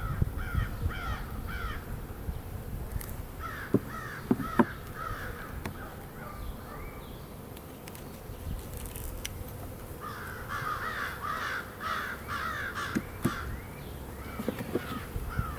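A bird calling in three runs of rapid repeated notes, with a few sharp knocks in between.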